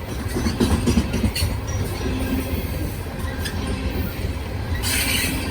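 CSX coal train's cars rolling past with a steady low rumble and scattered knocks of wheels on the rails, and a short hissing burst near the end.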